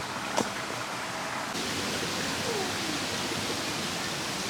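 Steady rushing noise with no clear source, with one sharp click about half a second in; the noise turns brighter and hissier about a second and a half in.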